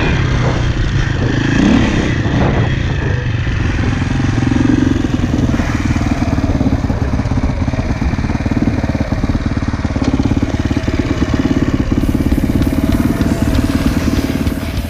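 KTM enduro dirt bike engine running, with a short rise in revs about two seconds in. From about midway it settles to a steady, evenly pulsing idle.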